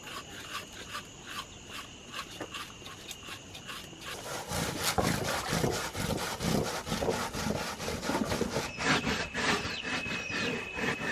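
Cassava root being grated by hand: rhythmic rasping strokes that get louder and quicker about four and a half seconds in.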